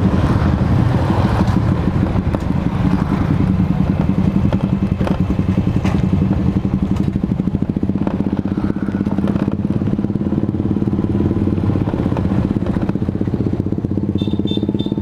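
Honda Supra underbone motorcycle's single-cylinder four-stroke engine running steadily while riding, at an even speed.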